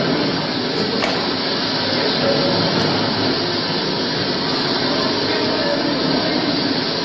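Steady, even rushing noise of storm wind and waves, a sound effect on the soundtrack of a film of Jesus and his disciples caught in a storm at sea.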